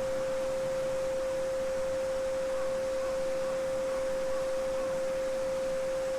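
A steady pure sine tone at 528 Hz, the so-called Solfeggio frequency, held unchanging, over the faint hiss of a babbling brook.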